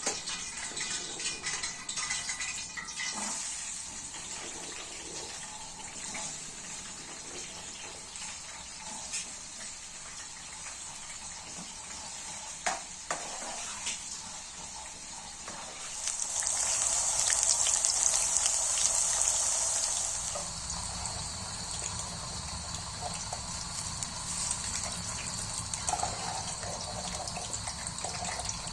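Steady rain hissing, with a louder rush of water lasting about four seconds midway and a few light clicks.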